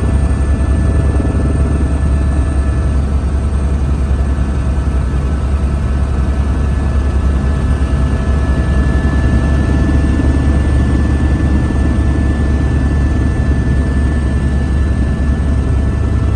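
Helicopter running steadily in flight: a constant low rotor-and-engine drone with faint steady higher whines over it.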